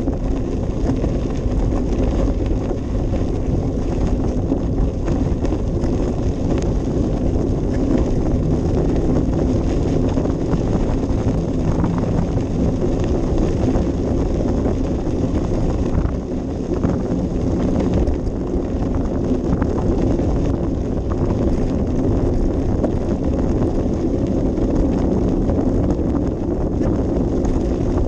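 Wind buffeting an action camera's microphone during a bicycle ride, with steady low rumble and a constant scatter of small rattles and clicks from the bike on a rough path.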